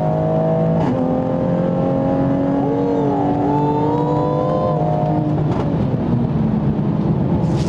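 Turbocharged 3.0-litre B58 inline-six of a tuned 2020 Toyota Supra with an upgraded Pure 800 turbo, accelerating hard under load, heard from inside the cabin. The engine note climbs slowly and drops sharply at two upshifts, about a second in and again about five and a half seconds in.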